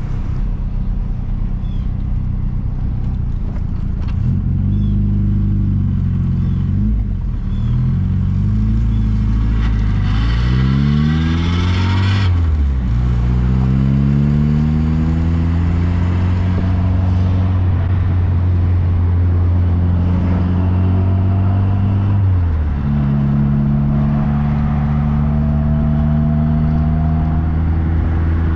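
MG Midget's four-cylinder engine pulling away and accelerating through the gears of its manual gearbox: the engine note climbs, drops back at each of three upshifts, then runs steady at cruising speed.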